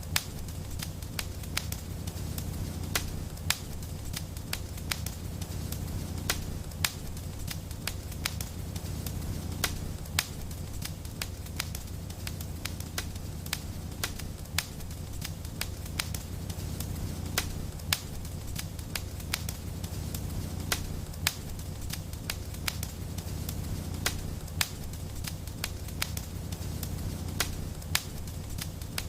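Fireplace fire burning: a steady low rumble with sharp, irregular crackles and pops, several a second, some much louder than the rest.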